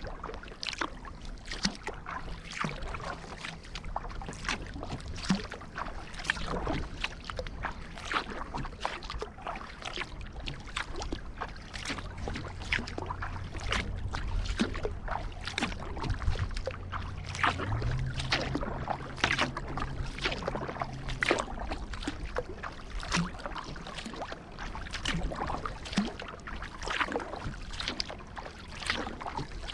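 Kayak paddle blades dipping and pulling through river water, stroke after stroke, with splashes and drips running off the blades. A faint steady low hum sits under it for most of the first two-thirds.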